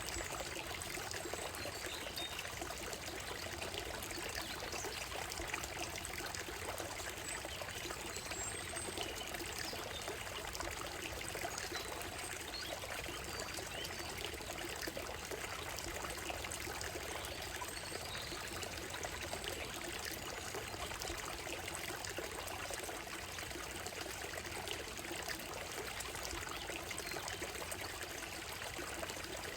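Shallow stream running over a gravel and stone bed: a steady trickling, splashing wash of water with no change in level. A few faint, brief bird chirps sound now and then above it.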